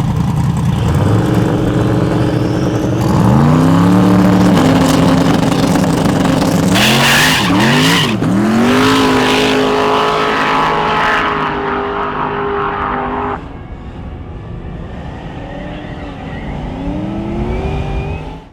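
Drag car engine revving up and held at high revs while its tyres screech, as in a drag-strip burnout. About midway the engine note wavers up and down under the tyre screech, then steadies. Near the end it is quieter.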